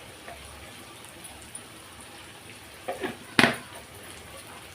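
Onions and spices sizzling steadily as they fry in oil in a kadhai, with a few sharp knocks about three seconds in, the loudest a single clack.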